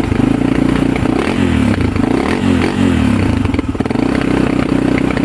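1997 Honda TRX300EX's air-cooled single-cylinder four-stroke engine running cold on choke, blipped up and down in revs a few times about a second in before settling back to idle. The engine is still cold, and a cold-blooded one that sometimes stalls until warmed up.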